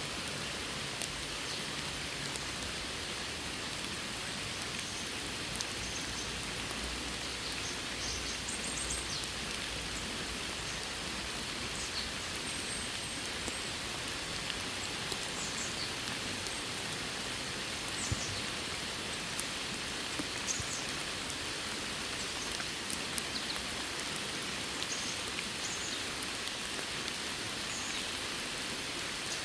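Steady rain falling, with individual drops ticking sharply here and there over the constant patter.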